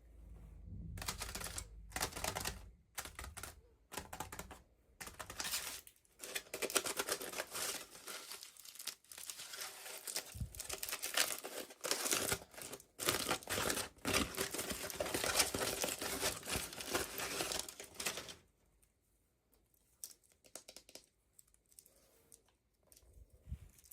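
Packaging being torn open and crinkled by hand, a dense run of crackling and tearing that stops about three-quarters of the way through.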